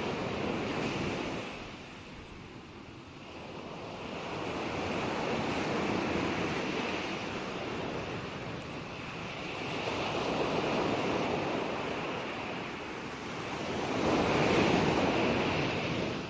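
Ocean waves breaking on a shore in slow swells, one every four or five seconds, with the surge near the end the loudest.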